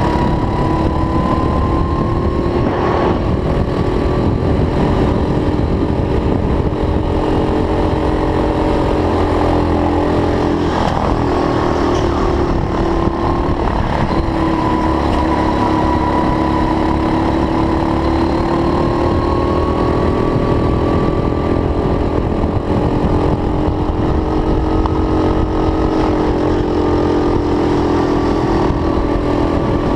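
Go-kart engine running hard during a race, its pitch rising and falling as the kart brakes and accelerates, with a couple of brief drops in pitch around the middle.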